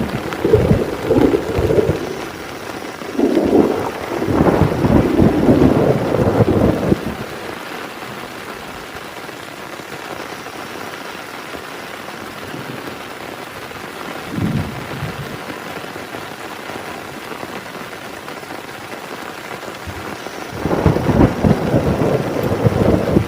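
Heavy rain falling steadily, with thunder rumbling through the first seven seconds, a short rumble midway and another rolling in about three seconds before the end.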